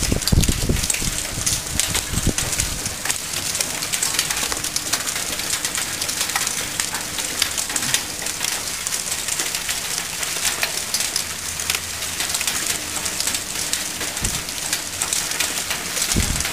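Hailstones, pea- to marble-sized, pelting down and clattering on surfaces as a dense, steady patter of countless sharp ticks. A few low thumps sound in the first couple of seconds.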